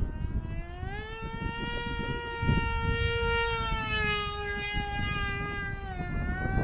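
Electric motor and propeller of a small RC flying wing whining in flight. The pitch dips and then rises about a second in, holds fairly steady, then dips and rises again near the end. Wind rumbles on the microphone underneath.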